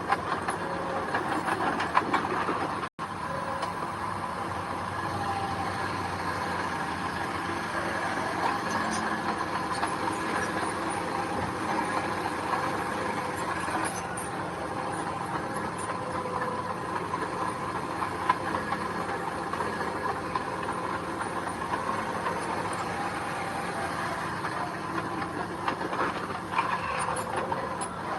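Diesel engine of heavy earthmoving machinery running steadily, with a steady whine over the engine noise and a brief break in the sound about three seconds in.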